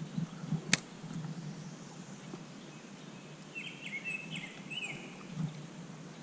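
A bird calling in a short run of quick chirps around the middle, over low steady background noise. There is one sharp click a little under a second in.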